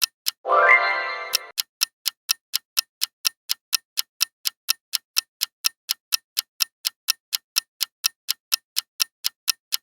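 Clock-ticking sound effect, sharp and even at about four ticks a second, with a bright chime that sweeps up at its start about half a second in and fades over about a second.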